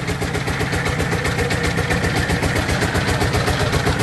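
Single-cylinder diesel engine of a power tiller running steadily, with a fast, even chugging of its firing strokes.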